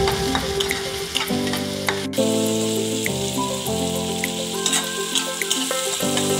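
Chopped tomato and onion sizzling in hot oil in a frying pan while a metal spatula stirs and scrapes them, with small ticks of the spatula against the pan. Background music with held notes plays underneath.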